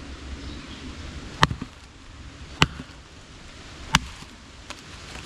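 Estwing Sportsman's hatchet chopping into wood to split firewood: four sharp strikes about a second and a quarter apart, then a lighter knock near the end.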